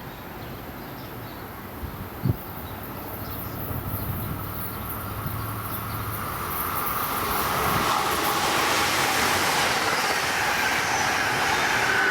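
Amtrak Keystone passenger train approaching cab car first, its wheels and rail noise building to loud from about two-thirds of the way through. A tone drops in pitch right at the end as the train comes by.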